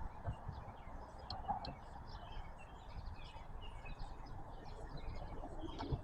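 Faint birdsong: scattered short chirps and tweets over a low, steady background.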